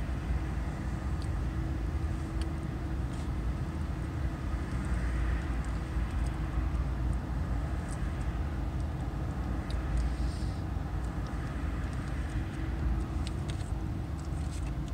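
Steady low rumble of a car idling, heard from inside its cabin, with a faint steady hum over it and a few light clicks.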